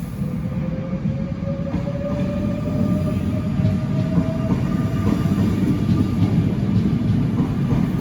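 Electric train moving off and gathering speed, its traction motors giving a slowly rising whine over a growing rumble of wheels on rails, with a few faint clicks over rail joints.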